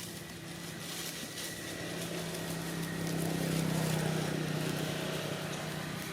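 A motor engine's steady hum that grows louder to a peak about four seconds in and then eases off, like a vehicle passing.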